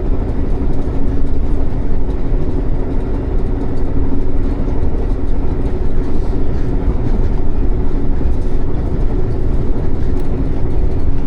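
Passenger train running along the line: a steady low rumble with a faint even hum through it.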